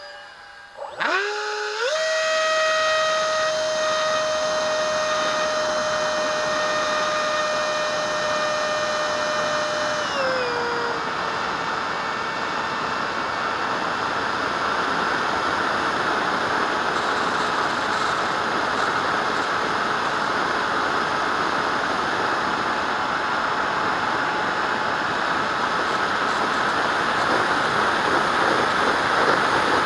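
Electric ducted fan of a radio-control jet spooling up about a second in to a steady high whine. About ten seconds in the pitch dips a little and a loud rushing of air through the fan takes over for the rest.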